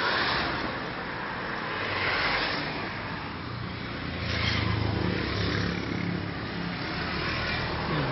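Motor vehicles passing on a road: swells of tyre and engine noise rise and fall three or four times, with a low engine hum strongest about halfway through.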